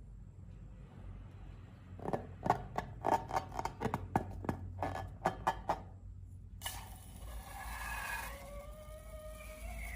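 Slime being squished and worked by hand: a run of sticky, crackling clicks for about four seconds, starting about two seconds in. About two-thirds of the way through it gives way to a rubbing sound with squeaks that slide in pitch.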